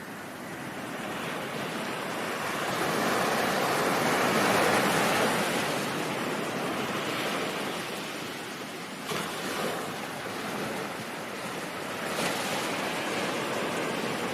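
Ocean surf: a wave swells and breaks, loudest about four to five seconds in, then washes back, with smaller breaks near the nine- and twelve-second marks.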